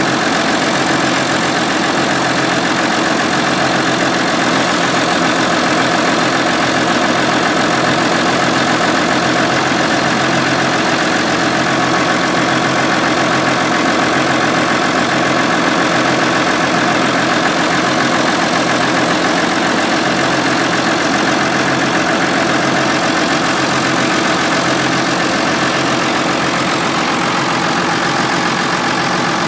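Massey Ferguson 6290 tractor's diesel engine running at a steady, unchanging speed.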